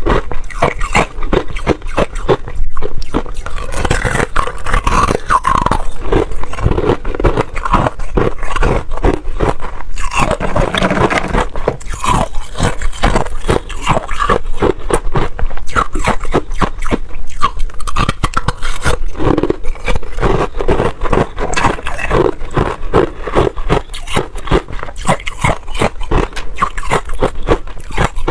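Close-miked biting and chewing of fluffy freezer frost: a dense, unbroken run of crunches.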